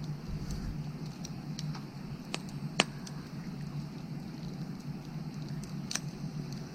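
Firewood burning, crackling with scattered sharp pops, the loudest a little under three seconds in, over a steady low background.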